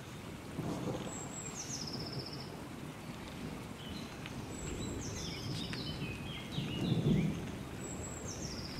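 A bird calling three times, each call a quick high note that steps down in pitch, with softer chirps between the second and third calls. Under it runs a low rumbling rustle from garden hose and wire being handled.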